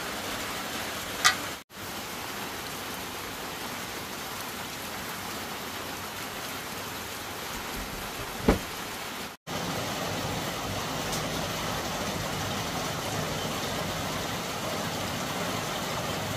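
Food sizzling as it is stir-fried in a pan, a steady hiss, with two short clinks, one about a second in and one about eight seconds in.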